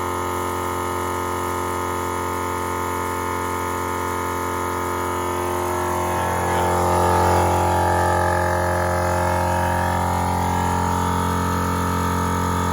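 Napa Maxi Trac 12-volt portable air compressor running steadily while inflating a large off-road tire: a low, even drone that grows slightly louder about halfway through.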